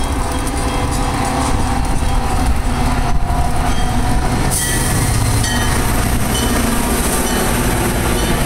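Metra diesel commuter train running at the platform, a steady loud rumble of the train and its cars. A broad hiss joins about halfway through.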